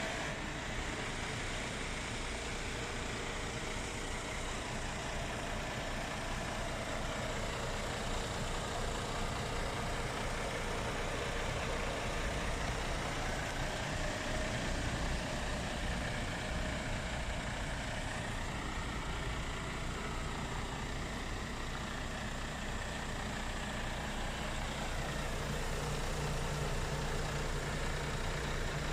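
Iveco Stralis 460 Euro 6 truck's diesel engine idling steadily.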